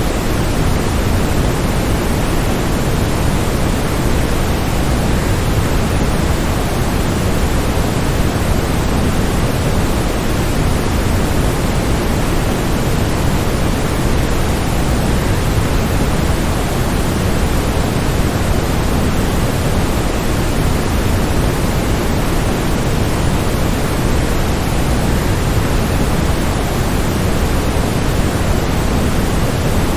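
Waterfall: a steady, unbroken rush of falling water, heaviest in the low end, with no changes or separate events.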